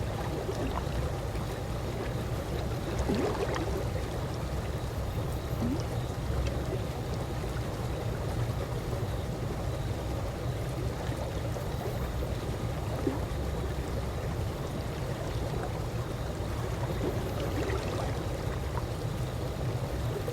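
Calm pool water lapping steadily, with a few faint gurgles scattered through it.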